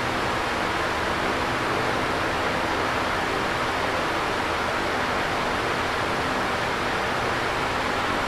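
Electric fan running steadily: an even airy whoosh of moving air with a faint low hum underneath.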